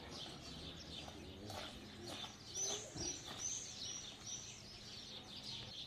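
Small birds chirping: a run of short, high chirps, about three a second, starting around two seconds in, over a faint steady low hum.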